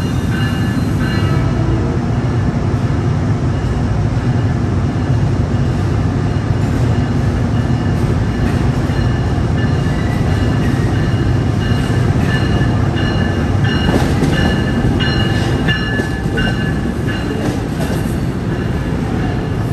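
A passenger train moving along the platform tracks: a steady, heavy rumble with faint high whining tones over it and scattered sharp clicks from the wheels in the second half.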